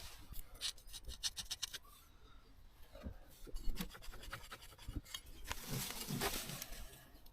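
Handling noises: scraping and rubbing with scattered knocks, a quick run of clicks about a second in, and a longer scrape near the end.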